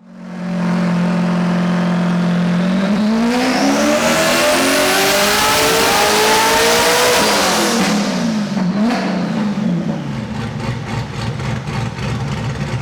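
A loud performance car engine holds steady revs, then revs up in one long rising pull of about four seconds with a high whine rising alongside. It then drops back with the pitch wavering, and music with a steady beat comes in near the end.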